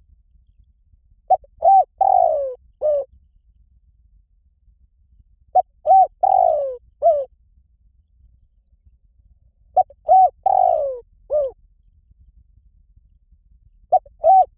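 Spotted dove cooing: three full coo phrases about four seconds apart, each a short note, two quick hooked notes, a long falling coo and a short closing note, with a fourth phrase starting at the end.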